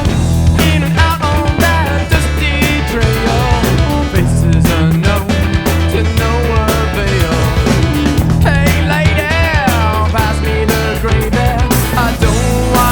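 Rock music with a steady beat: drums, bass and electric guitar, with a lead line that wavers and bends in pitch.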